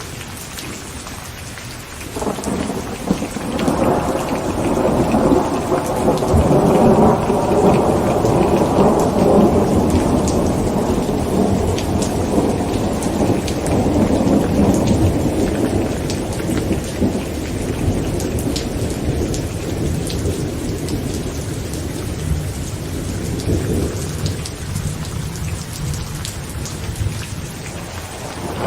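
Heavy rain drumming on a tent, with a long roll of thunder that swells about two seconds in, rumbles loudest for several seconds, then slowly fades; a new rumble starts right at the end.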